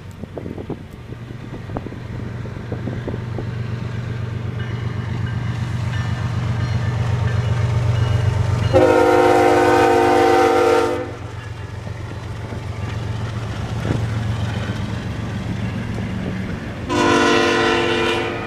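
Freight train led by three BNSF diesel locomotives approaching, its engines rumbling louder as it nears. The lead locomotive's air horn sounds a long blast about nine seconds in and a shorter blast near the end.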